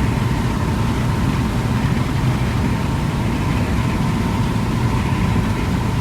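Car driving at speed with a window rolled down: a steady rumble of wind buffeting and road noise in the cabin, with a faint steady whine.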